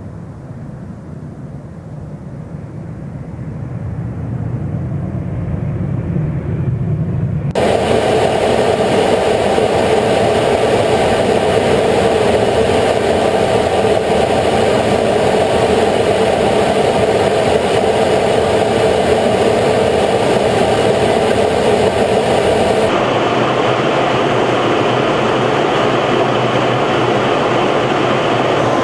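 Jet aircraft engines running. A low rumble swells over the first several seconds, then the sound cuts abruptly to a louder, fuller steady noise about seven seconds in, and changes character again abruptly about two-thirds of the way through.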